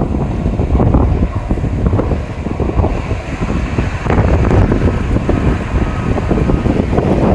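Wind buffeting the microphone: a loud, gusty rumble that swells and dips unevenly, with a faint steady tone coming through in the second half.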